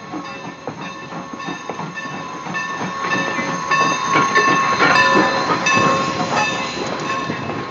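Norfolk & Western #475, a 4-8-0 steam locomotive, pulling a train into the station. Its bell rings over and over above the clank and hiss of the engine and cars. The sound grows louder to a peak about halfway through as it passes close, then eases.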